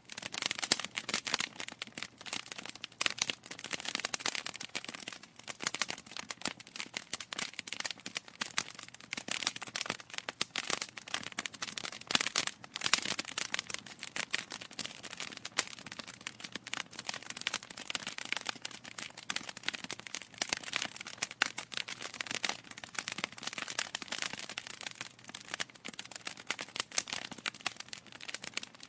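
Wood fire in a fireplace crackling and popping continuously, with many irregular sharp snaps, some louder than the rest.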